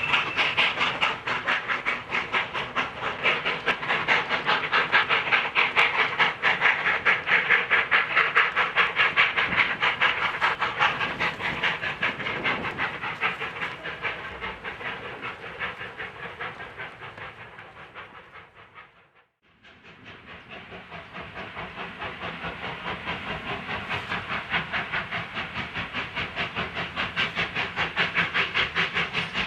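Industrial steam tank locomotive working under steam, its exhaust beats in a fast even rhythm with hiss, slowly fading away. About two-thirds through the sound cuts out briefly, then locomotive exhaust beats build up again.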